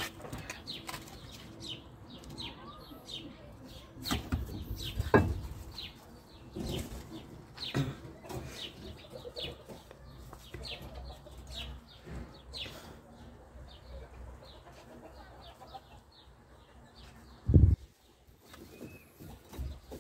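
Small birds chirping over and over, with a few scattered knocks and one heavy thud about three-quarters of the way through.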